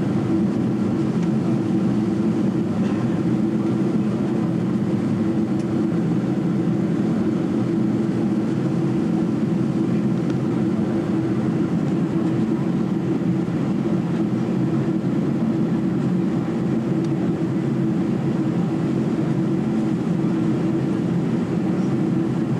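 Steady, unchanging drone of airliner cabin noise from the jet engines and airflow.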